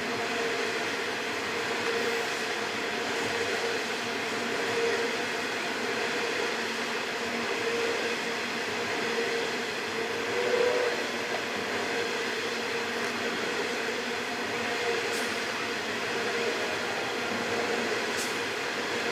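Loaded coal train's hopper wagons rolling past steadily, a continuous rumble of steel wheels on rails.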